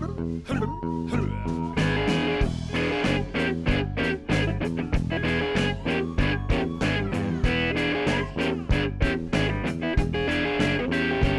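Instrumental blues intro: guitar and bass over a steady, even beat.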